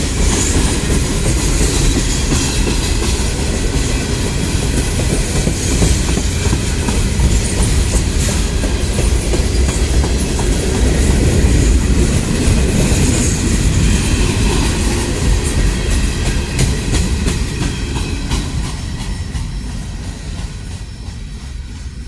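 Railroad cars rolling past, wheels clattering over the rail joints, with a heavy rumble underneath; the sound fades over the last few seconds as the train moves away.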